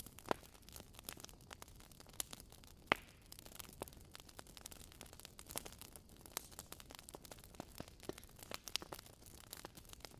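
Wood fire in a fireplace crackling: faint, irregular sharp pops and snaps over a soft hiss, with two louder pops, one just after the start and one about three seconds in.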